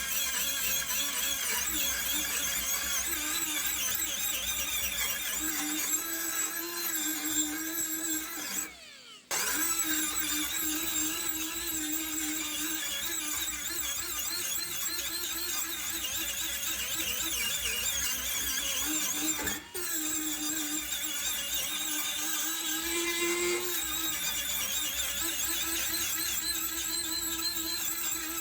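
Small handheld power tool whining steadily while working rusty metal, with a short break about a third of the way in and a brief dip about two-thirds through.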